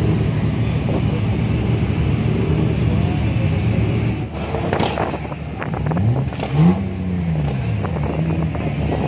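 BMW E36 drift car engine idling with a steady hum. About two-thirds of the way through, the engine revs once, rising and then falling back, as the car moves out on the track.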